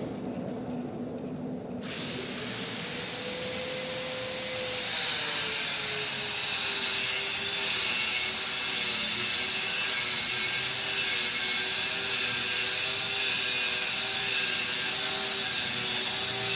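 Manual metal lathe running and machining a large steel bolt: the motor hums steadily, and about four and a half seconds in a loud, even scraping hiss of metal cutting comes in and holds.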